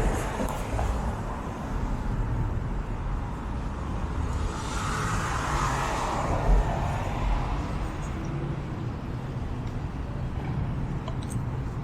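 City street traffic: a steady low rumble of engines, with one vehicle passing by about five seconds in.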